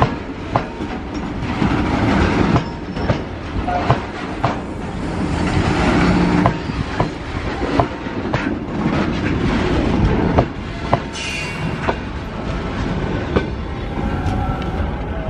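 Freight train of BCN covered wagons rolling past close by, steel wheels clacking over rail joints with irregular sharp knocks. A brief high wheel screech comes about eleven seconds in.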